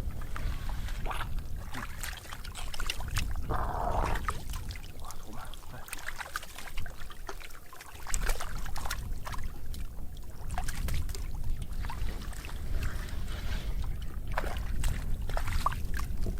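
Water splashing and trickling, with many scattered short clicks and splashes over a steady low rumble.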